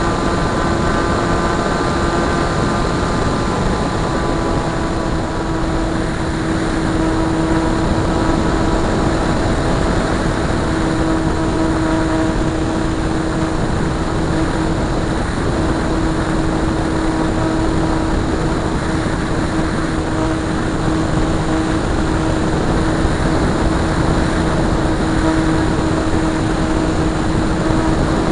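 Electric motor and propeller of a Multiplex Blizzard radio-controlled model airplane in flight, giving a steady whine at one held pitch under a constant rushing noise.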